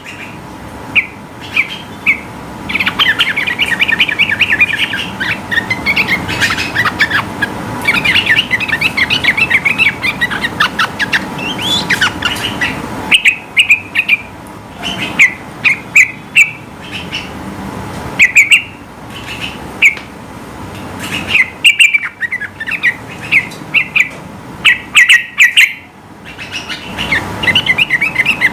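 Yellow-vented bulbul singing: long rapid runs of warbled notes, broken by sharp, loud short calls, densest in the first half and then in quicker clusters of chirps.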